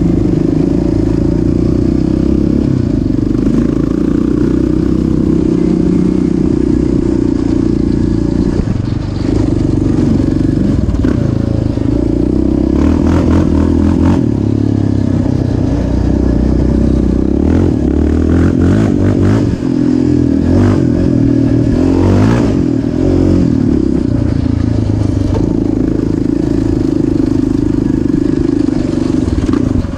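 Off-road vehicle engine running under changing throttle, with clattering knocks through the middle stretch.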